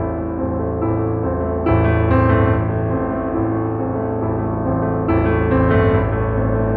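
Background piano music, a steady keyboard piece with a new chord struck every second or two.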